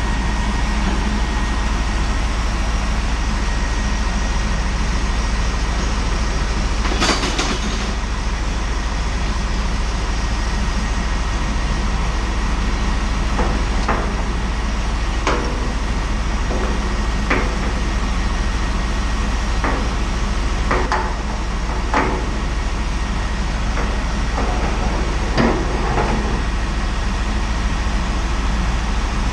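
Truck-mounted mobile steam unit running while steaming out a fuel tank: a steady, loud rushing noise over a low hum, with occasional short knocks.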